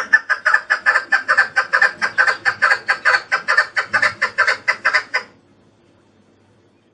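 Chukar partridge calling: a rapid, even series of short repeated notes, about five a second, that stops after about five seconds.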